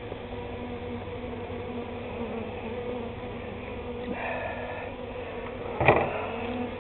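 A honey bee swarm humming steadily close to the microphone, a calm, even drone. A sudden knock a little before six seconds in stands out above the hum.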